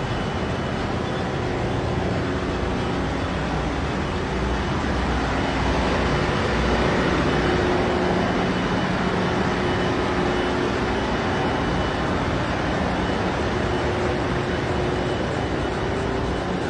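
Steady, loud machinery noise of a cargo ship's engine room: engines and pumps running together as one dense din, with a few faint steady hum tones underneath.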